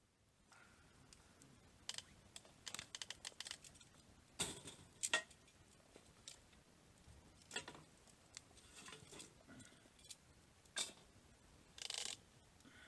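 Scattered small clicks, taps and rustling of objects being handled by hand, with a few sharper knocks.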